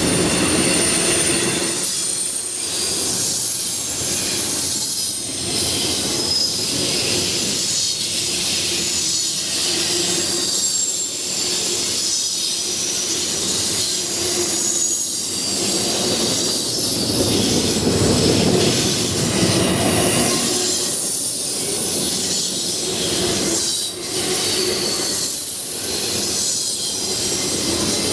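Freight train rolling past, its steel wheels squealing against the rails, with a regular clatter as each car's wheels pass.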